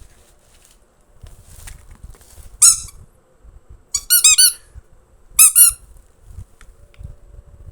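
High-pitched squeaks in three bursts: a single squeak, then a quick run of about four, then two more in quick succession.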